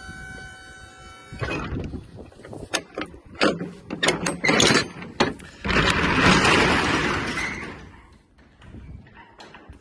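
Metal hardware on a box truck's cargo box being worked: a run of sharp clicks and clanks, then a couple of seconds of loud rattling that fades out.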